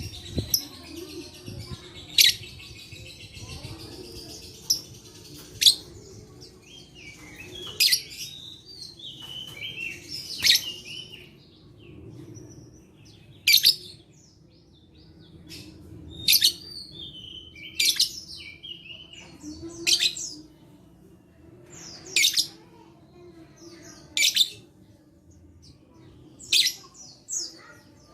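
Lovebird giving short, shrill, piercing calls about every two seconds, with softer chattering twitter in between.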